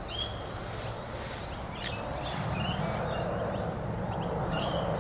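A bird gives short runs of quick high chirps three times: right at the start (the loudest sound), about two and a half seconds in, and near the end. Under it runs a steady low background rumble.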